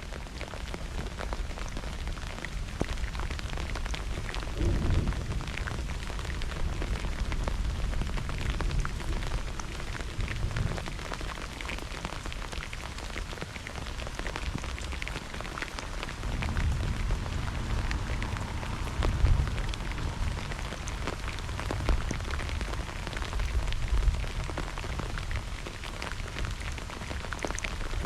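Steady heavy rain during a thunderstorm, its drops pattering and spattering close to the microphone. Low rumbles swell and fade a few times, near the start, past the middle and near the end.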